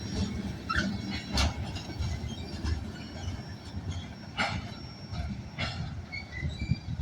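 Freight train cars rolling past: a low rumble with irregular metallic clanks of wheels over the rails and a few short, high wheel squeals.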